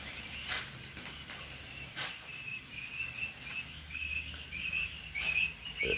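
Caged quails chirping in short, high, rapid twitters that start about two seconds in and grow denser toward the end. Two sharp knocks, about a second and a half apart, come in the first two seconds.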